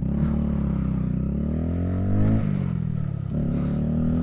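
Honda Grom's small single-cylinder four-stroke engine accelerating hard. It rises in pitch, drops back about two seconds in as the throttle eases or it shifts up, then climbs again, with another brief dip near the end.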